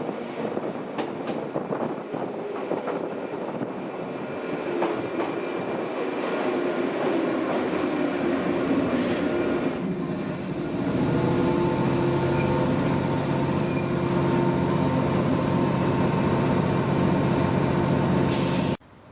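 Old JNR-type 115 series electric train on the rails: running noise grows louder, brief high-pitched wheel squeals come about ten seconds in, and then a steady hum with several held tones. It cuts off suddenly near the end.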